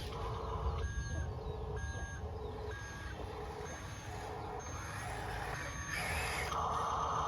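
Toy RC construction vehicle's reversing-beep sound effect, short electronic beeps a little under once a second over a low motor hum. About six seconds in there is a brief noisy burst, then a louder steady tone.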